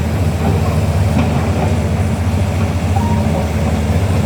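Diesel engine of a heavy earthmoving machine running steadily, a deep, even drone.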